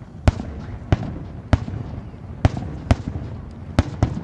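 Fireworks salute going off: about seven sharp bangs in irregular succession over a low, steady rumble of further bursts.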